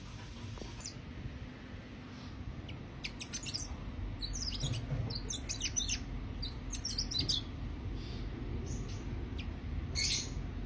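Cucak kino bird chirping in quick clusters of sharp, high notes. The clusters start about three seconds in and run to about seven and a half seconds, with one more burst near the end, over a steady low background rumble.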